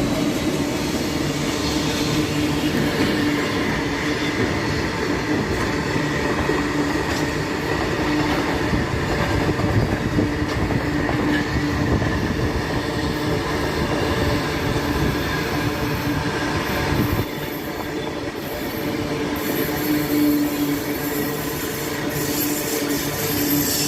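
Indian Railways passenger train running on the rails: a steady, loud rumble of wheels and carriages with a steady whine over it. The deep rumble drops away about seventeen seconds in.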